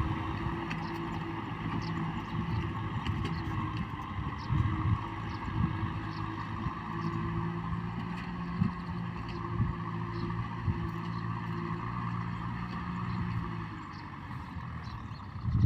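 Kubota M6040 tractor's four-cylinder diesel engine running steadily under load while working through mud, with scattered short knocks and clanks. The engine note drops slightly near the end.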